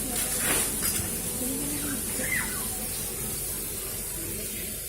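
Water spraying and splashing in a steady hiss, with a short bird chirp about two seconds in.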